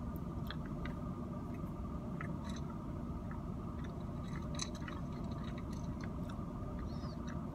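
Chewing soft chocolate-covered cranberries, with faint scattered small clicks of the mouth. Under it is the steady low hum of a car's cabin.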